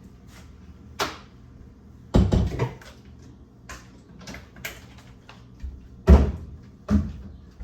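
Knocks and thuds of containers and food being taken out of a refrigerator and set down, a handful of separate hits with the loudest just after two seconds and near six seconds in.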